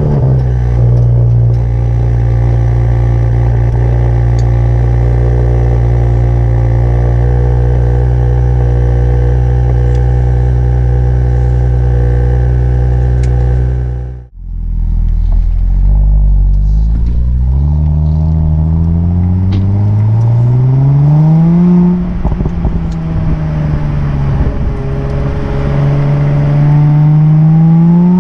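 Audi S4 Avant (B9) engine and exhaust running at a steady pitch for about fourteen seconds, then after a brief break pulling away, the pitch rising as it accelerates. The pitch drops back at a gear change about two-thirds of the way through and climbs again near the end.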